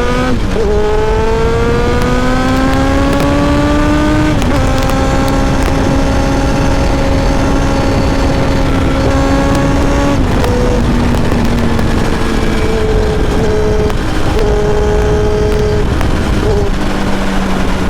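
Kawasaki ZX7R's inline-four engine pulling through the gears, its pitch rising and then dropping sharply at upshifts just after the start and about four and a half seconds in. It holds a steady note, then drops again around ten seconds in and runs lower and unevenly, under a constant rush of wind.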